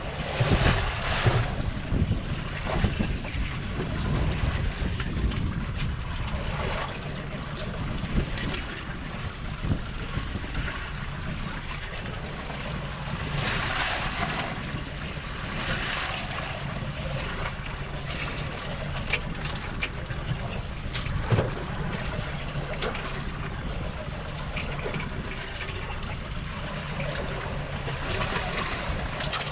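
Wind buffeting the microphone and sea water washing against a small fishing boat at sea, with a steady low hum and a few scattered knocks.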